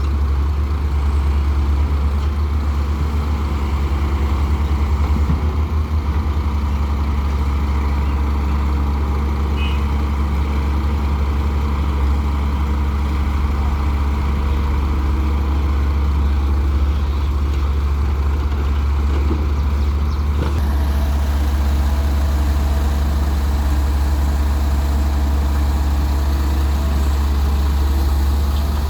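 Heavy diesel engine of a Daewoo Solar 170W-3 wheeled excavator running steadily with a deep, even drone while loading mud into a truck.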